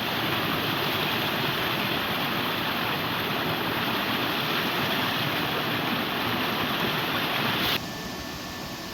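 Stream water rushing steadily over rocks. Near the end it cuts off abruptly to a quieter, steady hiss.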